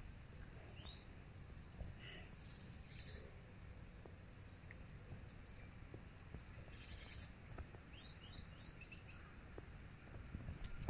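Faint woodland birdsong: scattered short high chirps and quick falling calls, over a steady low rumble.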